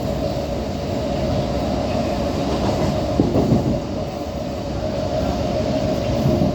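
MMTS electric suburban train running: steady rumble of the car and wheels on the rails with a steady hum, and a brief knock about three seconds in.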